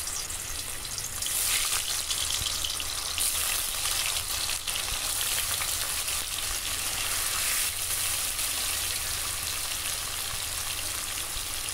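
Paneer cubes frying in hot mustard oil in a kadai: a steady sizzling hiss with light crackles of spattering oil as more cubes go in.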